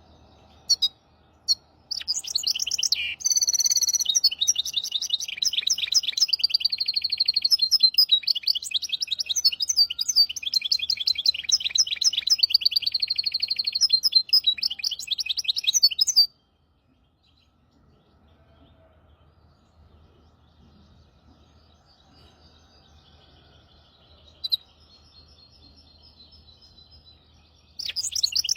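Hybrid finch singing. After two short chirps it gives a long run of fast trills and twittering phrases for about fourteen seconds, breaks off abruptly, continues faintly, and starts loudly again near the end.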